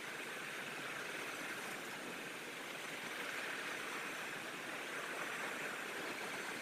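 Container freight train rolling past at a distance: a steady, even rush of wagon wheels on the rails, with no horn or clanks standing out.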